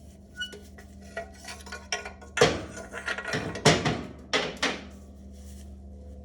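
Metal clanking and knocking as motorcycle exhaust parts and tools are handled: about eight sharp hits, some ringing briefly, over a steady low hum.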